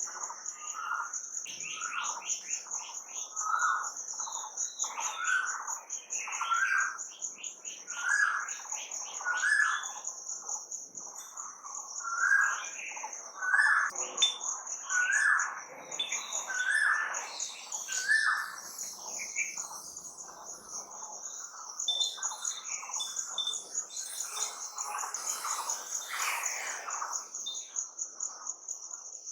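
Birdsong: one bird repeats a short rising call about once a second, loudest for the first two-thirds and then fading among softer chirps from other birds, over a steady high-pitched pulsing trill.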